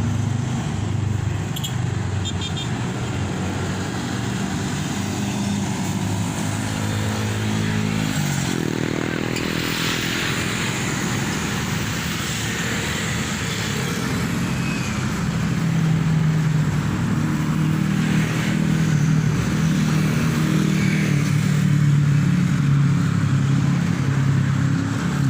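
Road vehicle engine running in traffic, its pitch gliding upward about eight seconds in as it speeds up, then running steadily and slightly louder in the second half.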